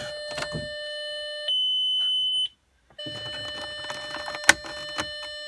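A single high electronic beep, about a second long and the loudest thing here, over a steady high-pitched electronic whine. The sound drops out for half a second, then the whine returns with a sharp click a couple of seconds later.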